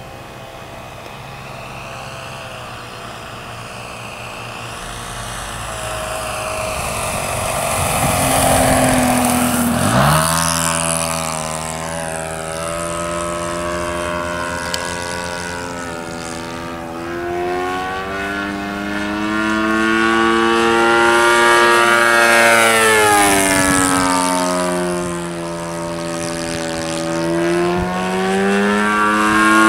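Saito .100 four-stroke glow engine of an RC model plane running, its pitch and loudness rising and falling repeatedly, with a steep sweep in pitch about ten seconds in, as the plane flies passes and the throttle changes.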